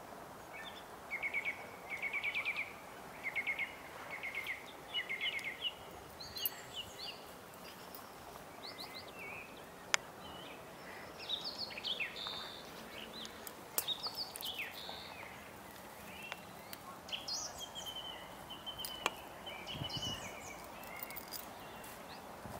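Songbirds singing outdoors: a run of short, quickly repeated trilled phrases in the first few seconds, then scattered varied chirps, over a steady background hiss. A single sharp click comes about halfway through.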